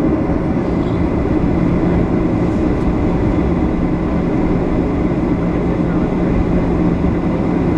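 Boeing 737-700 jet engines running steadily: a constant low rumble with a steady hum over it, with no rise or change in level.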